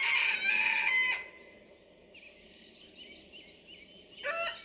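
A dog crowing like a rooster: a loud, strained call about a second long at the start, then a second call beginning near the end.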